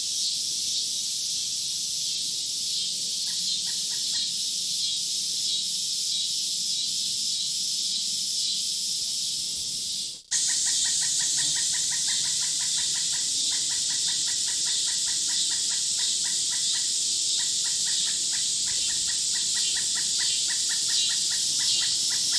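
Nature ambience of birds and insects: a dense, steady high chorus. About halfway through it cuts out for an instant, then returns with a fast, evenly repeated pulsing call added.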